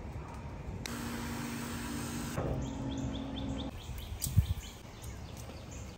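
A bird chirping in a quick run of short, falling notes, after a burst of hissing about a second and a half long. A single thump comes about four seconds in.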